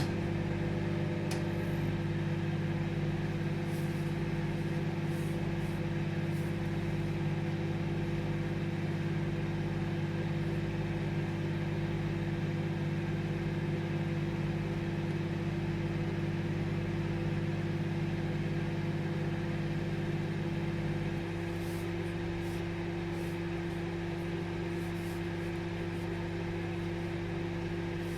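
Microwave oven running with a steady, even hum. There is a click right at the start, and about three quarters of the way through part of the low hum drops out, leaving a slightly quieter hum running on.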